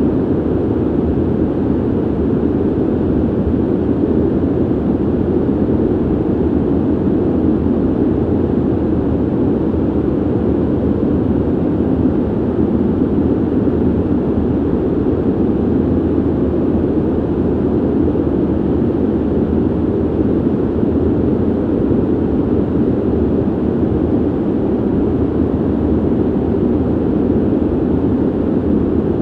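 Steady ventilation noise: an even, unbroken rush of air, low and dull, with most of its weight in the low-mid range and little hiss.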